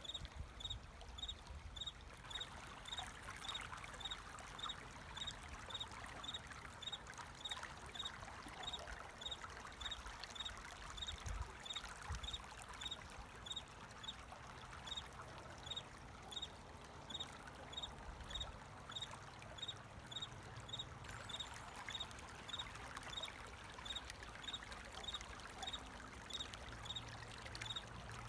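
Flowing water trickling steadily, with a cricket chirping at an even pace, about two short chirps a second.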